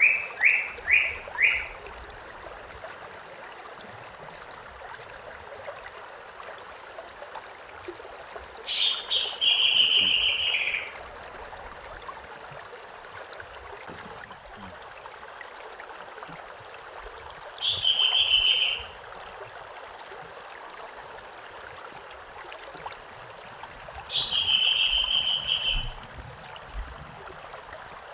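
A small stream running steadily, with a songbird singing over it. The bird gives a quick run of falling notes at the start, then three similar phrases about eight seconds apart, each a short high note followed by a rapid trill lasting a second or so.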